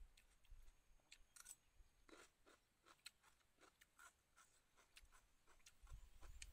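Faint chewing and mouth sounds of a person eating a pork dish from a spoon, with many small, irregular clicks scattered throughout.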